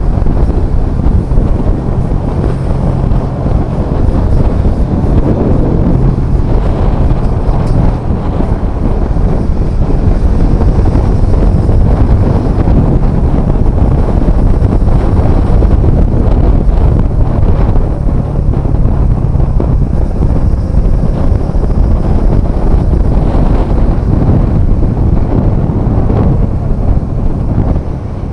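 Heavy wind noise buffeting the microphone on a moving motorcycle, over the steady hum of a Bajaj Dominar 400's single-cylinder engine.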